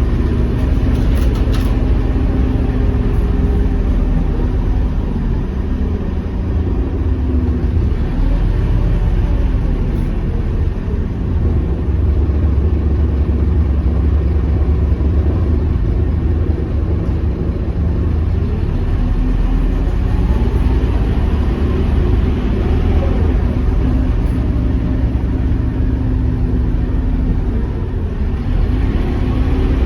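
Scania K230UB bus's diesel engine running steadily under way, with a strong low rumble and engine pitch that rises and falls several times as the bus speeds up and slows.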